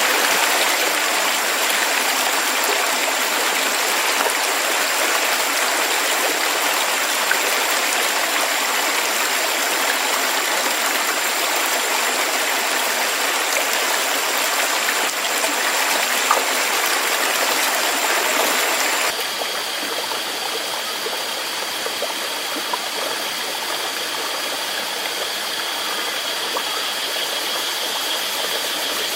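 Rushing water of a stream or waterfall, a steady hiss-like rush, with a faint steady high tone over it. About two-thirds of the way through, the sound cuts abruptly to a slightly quieter rush of water with different faint tones.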